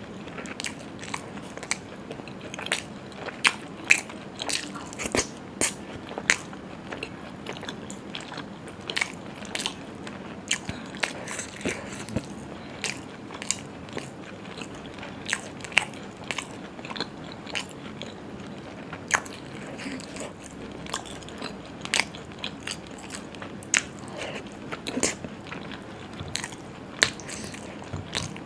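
A person eating close to the microphone, biting and chewing, with many short sharp mouth clicks, several a second and irregular.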